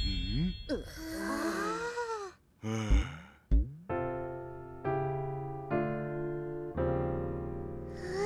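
Cartoon soundtrack: wordless character vocalizing with pitch sliding up and down, two short low knocks, then four sustained electric piano chords struck about a second apart, each fading away.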